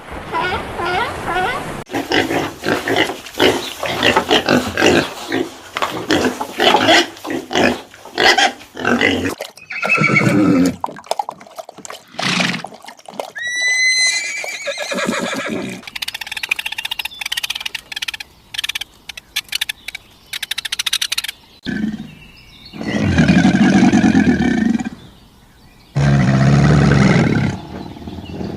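A string of different animal calls: quick wavering calls one after another for the first nine seconds or so, a short high rising whistle near the middle, and two long, lower calls near the end.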